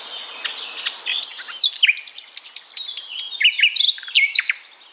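Birds chirping: a busy run of short, high chirps and quick swooping notes, several overlapping at once, fading near the end.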